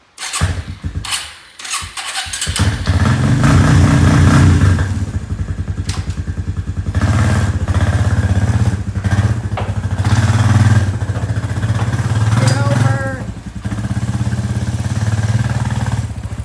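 A small off-road vehicle engine catching with a few sputters in its first couple of seconds, then running with a steady low chug and revving up and easing off several times.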